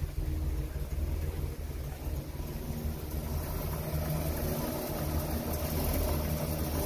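1950 Chevrolet Fleetline Deluxe's straight-six engine idling steadily and quietly, running for the first time in a long time, before its carburetor has been rebuilt.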